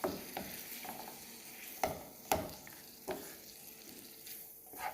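Chicken pieces sizzling in a pan as a spoon stirs and turns them over, scraping and knocking against the pan several times over a steady hiss of frying.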